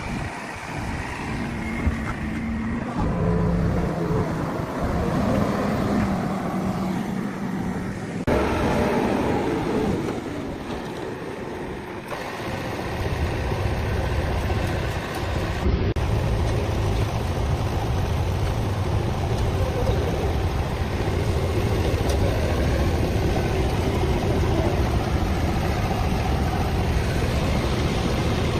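Diesel engine of a heavy vehicle running. Its sound shifts a few times, settling into a steady deep rumble a little before halfway.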